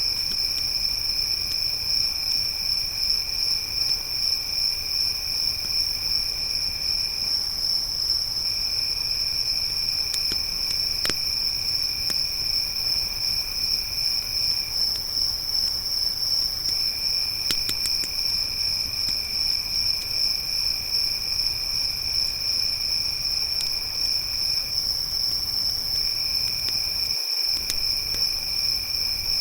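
Crickets trilling in a steady, unbroken high-pitched chorus. A second, lower insect trill stops and starts again several times. A few faint sharp pops of a crackling campfire come through now and then.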